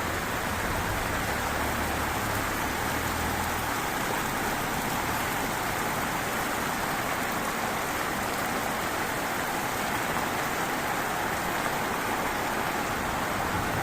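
Heavy rain falling steadily, with a faint low hum in the first few seconds.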